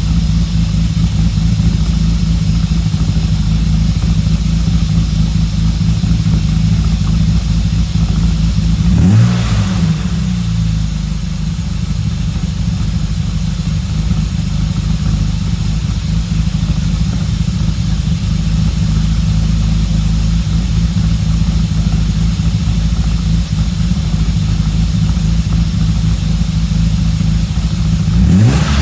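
Exhaust of a BMW E34 Touring's S52 3.2-litre straight-six idling after a cold start. About nine seconds in, the throttle is blipped once: the note rises and falls back to idle. Another rev begins at the very end.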